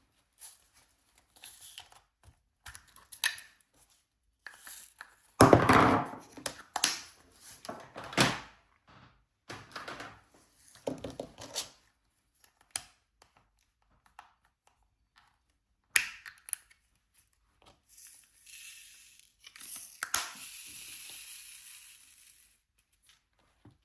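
Plastic crinkling and tearing mixed with light taps and thunks as diamond painting materials are handled, loudest in a cluster about five to eight seconds in, with a few seconds of steady rustling near the end.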